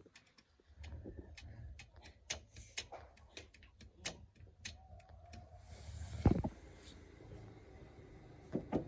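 A run of irregular clicks and knocks, typical of hand tools and engine parts being handled, with one heavier thump about six seconds in and a low hum under the clicks until then.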